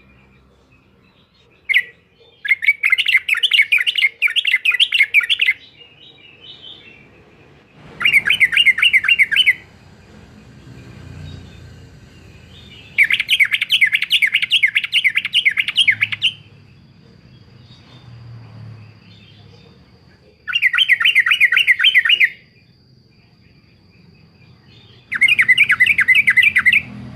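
Yellow-vented bulbul singing in short loud phrases of rapid, chattering repeated notes. About five phrases come at uneven intervals with pauses between.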